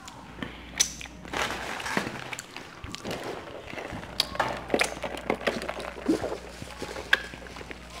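Close-up eating sounds: crunching and chewing fried food, with many short sharp clicks and scattered knocks.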